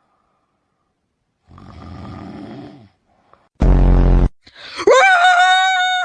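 A dog vocalising: a drawn-out low groan, then a short loud harsh rasp, then a high whine that rises and holds steady for over a second.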